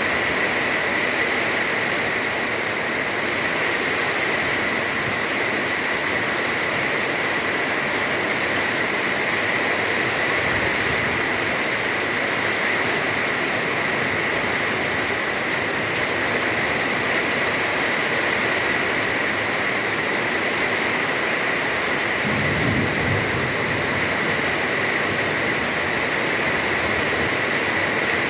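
Heavy rain pouring steadily, with a brief low rumble about three-quarters of the way through.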